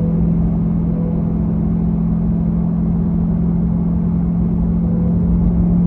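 Corvette C8's engine droning steadily with road rumble while the car drives at an even speed.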